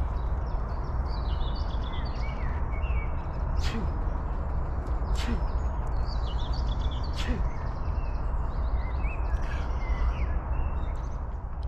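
Small birds chirping and singing over a steady low rumble, with three sharp clicks spread through the middle.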